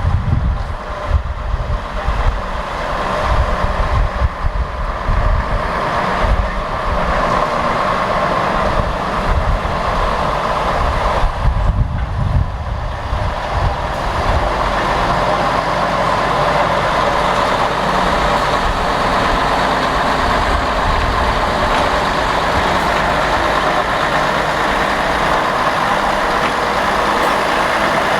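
Steam locomotive standing and hissing steam steadily, with irregular low rumbles through roughly the first half.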